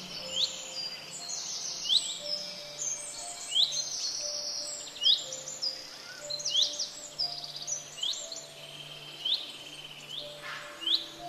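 Birds chirping: short, rising calls repeated about once a second, over soft background music with slow held low notes.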